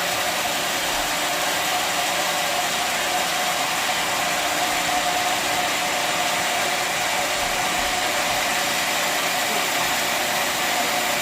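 Sawmill machinery running steadily: a continuous, even machine noise with a faint steady whine, no change in pitch or level.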